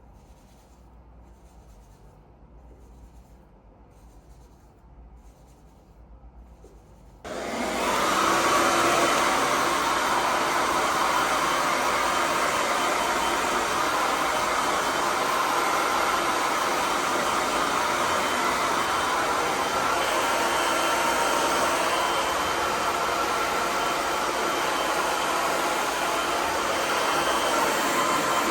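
After a quiet start, a hair dryer switches on suddenly about seven seconds in and then runs steadily with an even rushing blow of air.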